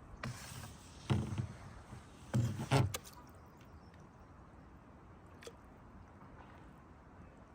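Kayak paddle strokes in the water: a few splashing dips in the first three seconds, then quieter water.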